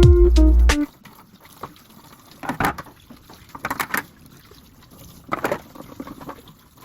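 Water splashing as plastic refrigerator door shelves are washed in a sink, with a few louder splashes and knocks. Background music cuts off about a second in.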